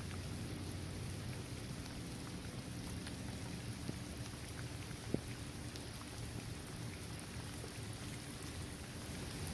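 Steady rain falling on a hard court surface, trees and grass, with scattered single drops ticking and one sharper drip about five seconds in, over a low steady rumble.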